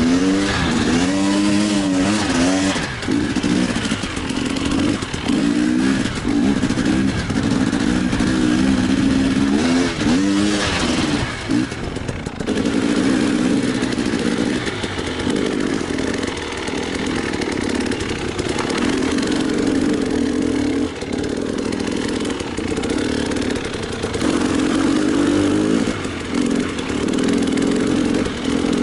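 Enduro motorcycle engine working hard off-road, revving up and down over and over through the first half as the throttle is worked, then pulling more steadily.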